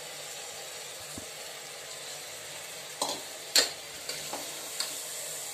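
Spiced vegetables and freshly added washed rice frying in oil in a pressure cooker, a steady sizzle. About three seconds in come several sharp clicks and knocks as the rice is stirred in, the loudest about half a second later.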